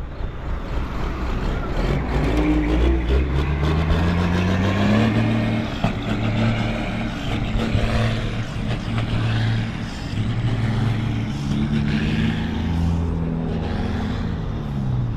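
Heavy diesel truck engine accelerating and pulling away, its pitch rising over a few seconds, then holding and shifting up and down as it changes gear, and dropping near the end.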